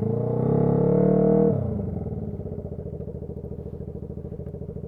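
Honda CB125T's small parallel-twin engine through a loud muffler, revving up for about a second and a half, then dropping back to a steady low-throttle running note.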